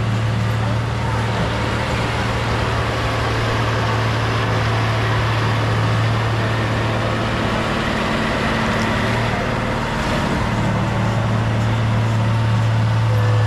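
A heavy earth-moving machine's diesel engine running steadily under load, with a strong low hum that eases for a couple of seconds just past the middle and then comes back.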